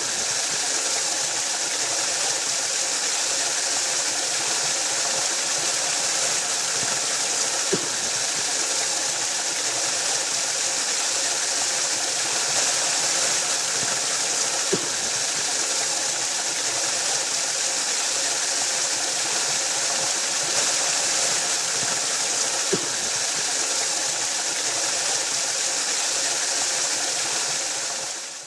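Waterfall rushing in a steady, even hiss, with a faint click three times about seven seconds apart; it fades out at the very end.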